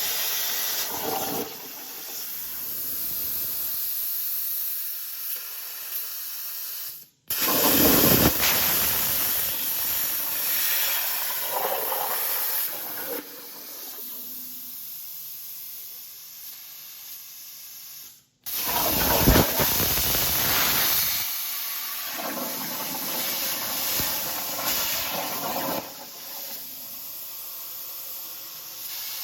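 Plasma cutter cutting aluminum: a loud, steady hiss of the torch's air and arc, with the level rising and falling as the cut goes. The sound breaks off abruptly twice, about 7 s and 18 s in.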